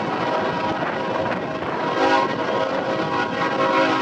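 Freight train of Herzog open-top rail cars rolling past at a grade crossing. Under a steady rumble and rattle, several steady high tones ring out and grow louder about two seconds in.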